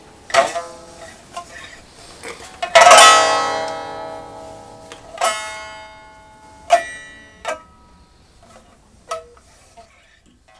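Slow plucked string music: a few single notes, then a loud chord about three seconds in that rings out and decays, then sparse single plucked notes that fade away near the end.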